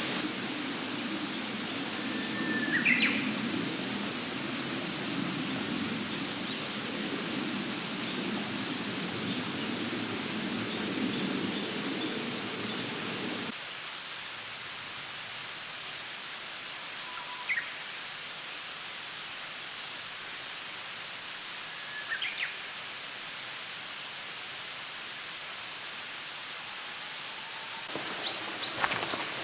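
Steady rushing outdoor noise with three short bird chirps: one about three seconds in and two more later. The deeper part of the rushing drops away about halfway through, and a few sharp knocks come near the end.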